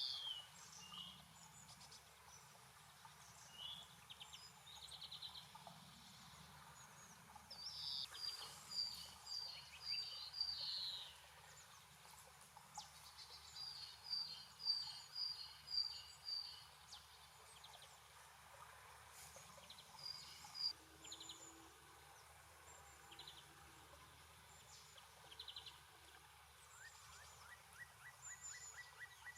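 Small songbirds singing and calling faintly in the open: short runs of five or six evenly repeated high notes, with scattered single calls. A quick series of faint taps comes near the end.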